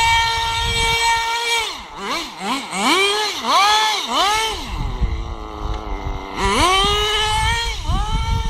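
Small high-revving RC car motor. It holds a steady high pitch, then is blipped up and down in quick rises and falls before climbing and holding high again, over a rough low rumble.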